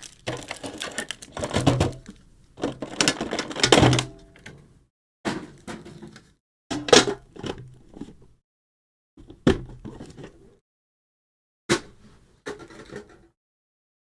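Crinkling and crackling of plastic packaging in bursts, with a few sharp knocks, as a Pokémon card tin is unpacked.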